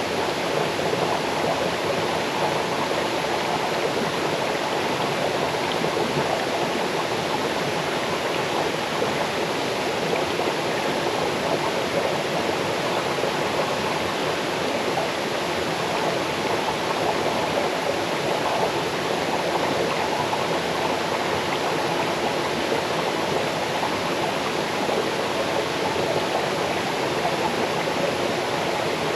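Small waterfall cascading into a forest stream: a steady rush of falling and babbling water.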